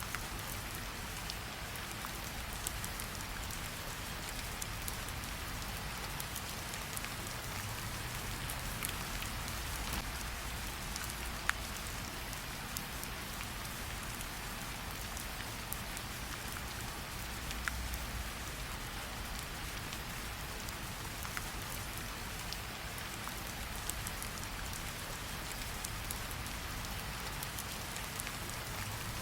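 Steady rain with scattered sharp pops from a crackling campfire, the loudest about eleven and a half seconds in.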